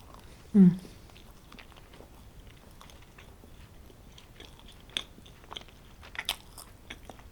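A person chewing a mouthful of homemade pizza, with faint scattered wet mouth clicks. About half a second in there is a short, loud hummed "mm".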